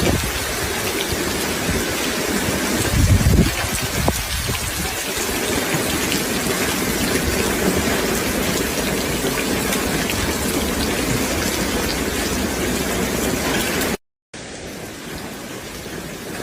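Steady heavy rain falling. There is a brief low rumble about three seconds in. Near the end the sound cuts out for a moment and comes back quieter.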